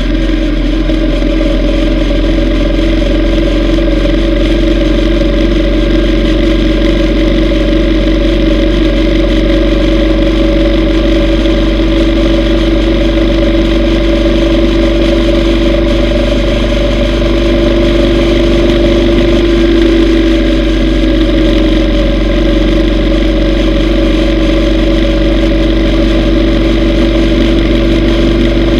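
Yamaha V Star 950's V-twin engine running at a steady speed, its pitch holding nearly even, with a slight rise and dip about two-thirds of the way through.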